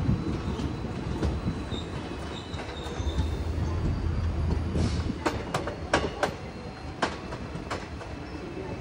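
The 17024 Tungabhadra Express passenger train rolling on the track with a steady low rumble. About five seconds in comes an uneven run of sharp clacks as the wheels pass over rail joints.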